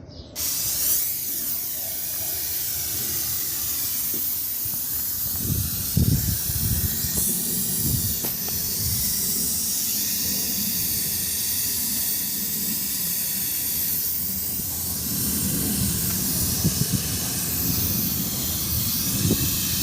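Insecticide spray hissing in a long, steady, continuous spray that starts abruptly, with a few low knocks of handling mixed in.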